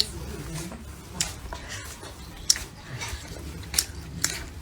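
A few sharp, irregularly spaced clicks and knocks over a low steady hum.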